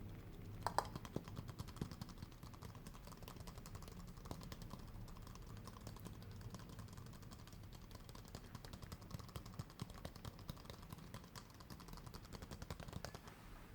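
Rapid, light ASMR tapping: many soft, fine clicks a second, quick and irregular like typing.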